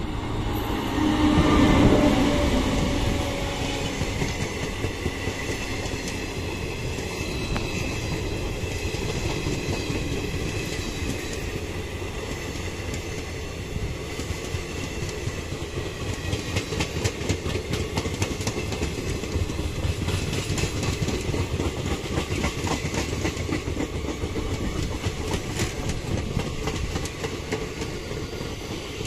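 Express passenger train passing at speed on Indian Railways, led by an electric locomotive. The locomotive goes by with a falling whine about two seconds in, the loudest moment. Then the passenger coaches rumble steadily past, with rapid clickety-clack of wheels over rail joints, busier in the second half.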